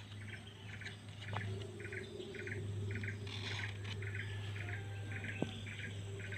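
A bird repeating a short high chirp at an even pace, about twice a second, over a steady low hum.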